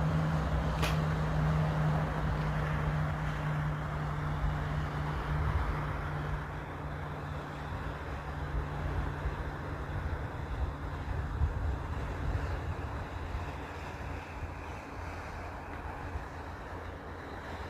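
A boat's engine droning steadily and fading away over the first several seconds, over wind buffeting the microphone and the wash of water. A brief sharp click about a second in.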